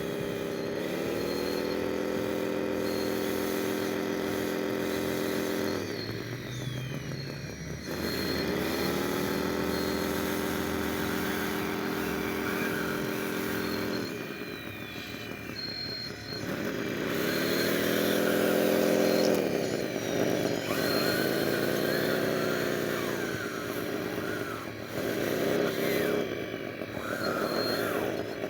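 Electric motor of a radio-controlled construction model whining in repeated spells, about five times. Each spell spins up quickly in pitch, holds a steady whine for a few seconds, then cuts off.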